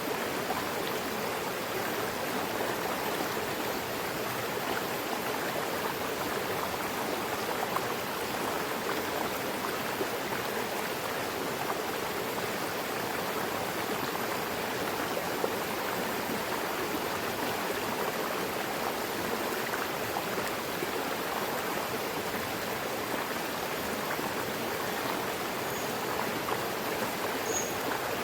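A mountain river flowing steadily, an even rush of water over rocks.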